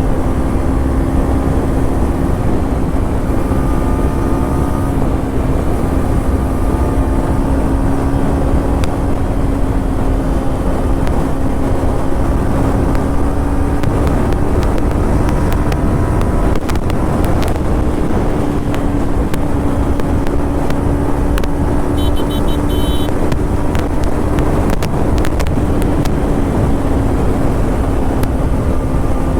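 Kawasaki Ninja 300's parallel-twin engine pulling at a steady cruise, heard while riding, with a heavy low rumble of wind noise. The engine note holds steady and steps up a little just past halfway.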